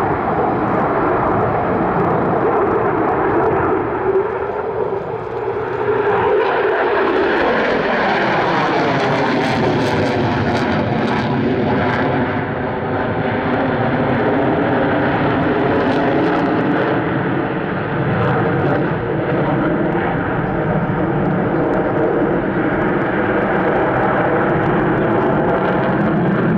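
Jet noise from a Boeing F/A-18 Super Hornet's twin General Electric F414 turbofans as it flies past in a display, loud throughout. Its tones slide in pitch as it passes, with crackling near the middle.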